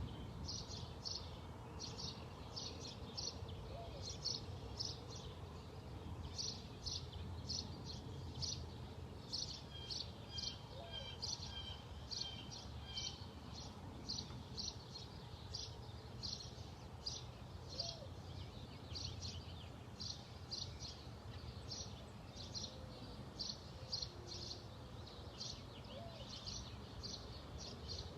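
Small birds chirping: short, high chirps in quick runs of two to four, repeating through the whole stretch, over a low steady outdoor rumble.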